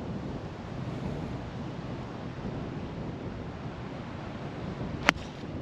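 Strong wind rushing across the microphone, steady throughout. About five seconds in comes a single sharp crack of a golf iron striking the ball.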